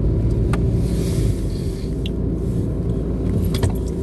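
Steady low rumble of a car's engine and road noise heard inside the cabin while driving, with a few light clicks.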